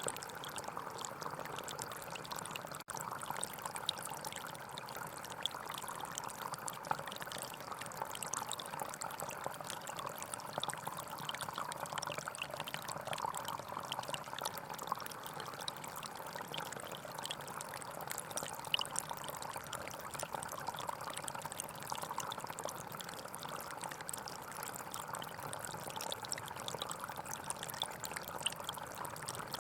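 Gentle forest stream flowing: a steady rush of water with fine trickling and splashing throughout. It drops out for an instant about three seconds in.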